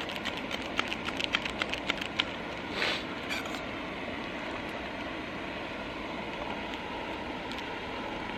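Camp stove burner running with a steady hiss on a low flame, heating a pot of cold water. A run of small clicks and clinks comes in the first two seconds.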